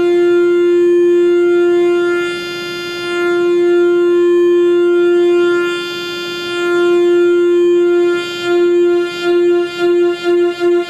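Roland FA-06 virtual analog synth holding one steady pulse-wave note, its pulse width slowly swept by a low-frequency sine wave so the timbre changes from reedy to fuller and back every few seconds. From about eight seconds in the note starts to pulse, quickening toward the end.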